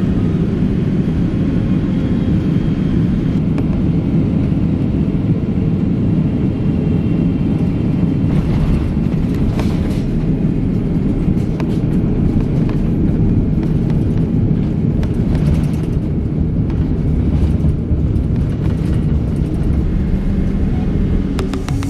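Cabin noise of a Boeing 777-300ER in flight: a steady low rumble of engines and airflow. Short rattling knocks come and go from about 8 seconds in.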